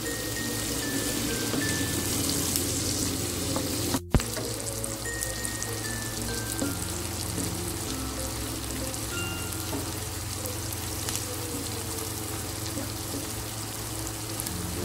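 Sliced shallots, garlic, lemongrass and galangal sizzling gently in oil in a wok over a low flame, with soft background music. The sound drops out briefly about four seconds in.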